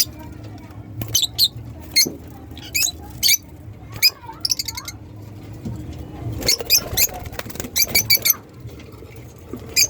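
Lovebirds giving short, shrill chirps, singly and in quick clusters, over a faint steady low hum.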